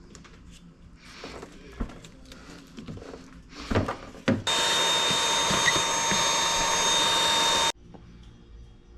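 Scattered handling knocks and clicks, then a power tool running at a steady speed for about three seconds, starting suddenly a little past halfway and cutting off abruptly.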